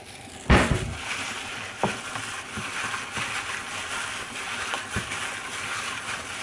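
Food frying in a hot pan: a steady sizzle, with a loud knock about half a second in and a few lighter knocks of cookware.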